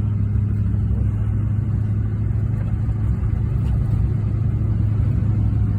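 Steady engine and road drone of a vehicle being driven, heard from inside the cabin: an even low hum that holds constant.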